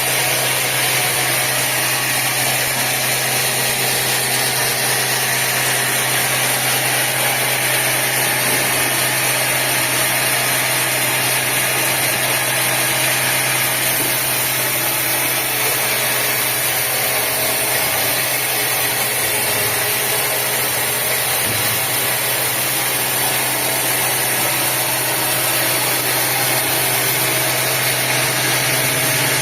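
Sawmill machinery running steadily: a constant low hum under a loud, even hiss that does not change.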